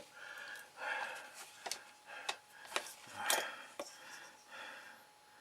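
Faint handling sounds of small objects at a work table: a few light clicks and soft rubbing noises.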